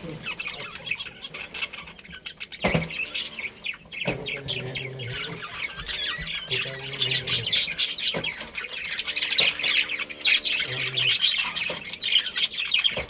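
A colony of budgerigars chattering and chirping continuously, with a few sharp clicks among the calls.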